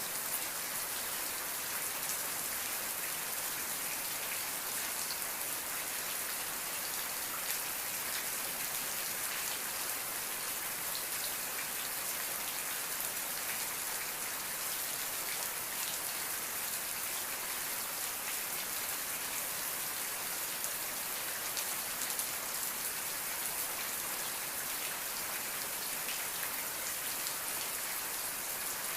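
Steady rainfall: a constant hiss of rain with many small drops pattering on a surface, no thunder.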